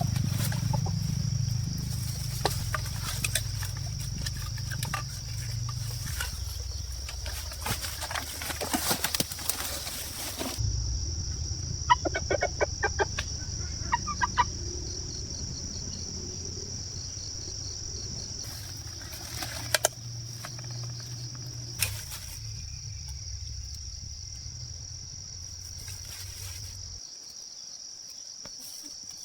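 Fowl clucking, with bursts of wings flapping, over a steady high insect buzz.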